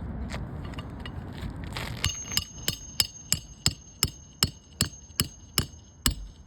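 Hammer striking metal, most likely roofing nails during a shingle repair: about a dozen quick, evenly spaced strikes with a metallic ring, starting about two seconds in.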